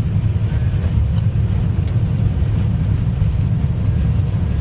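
Airbus airliner's landing rollout heard from the cockpit: a steady low rumble of the engines in reverse thrust and the wheels on the runway as the aircraft decelerates after touchdown.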